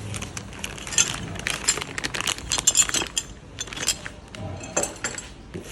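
Irregular light metallic clinks and taps, several strikes a second, each with a short bright ring.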